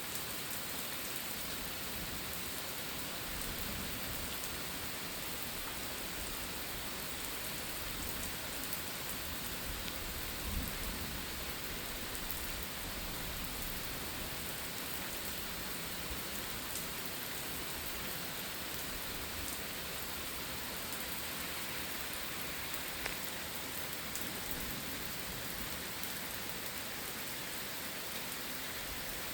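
Steady rain from a thunderstorm falling on surfaces, with scattered sharper drip taps and one brief low thump about ten seconds in.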